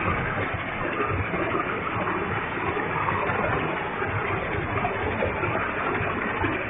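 Waterfall with a heavy flow of water pouring down: a steady, even rush of falling water.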